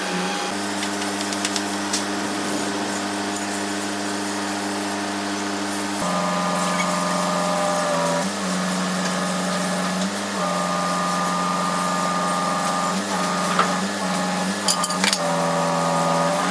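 Electric woodworking power tool motor running at a steady pitch, which dips briefly several times in the second half as it takes load, with a few sharp clicks near the end.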